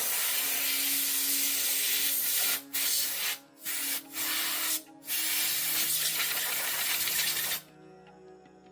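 Loud, even hiss of a tool scouring rusty metal, stopping briefly four times and cutting off a little before the end.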